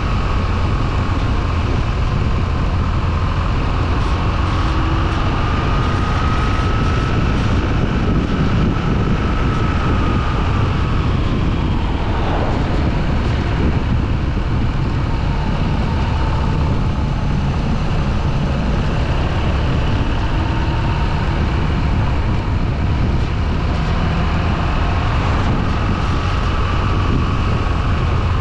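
Motorcycle engine running while riding, its pitch drifting slowly up and down with speed, with steady wind rush on the microphone.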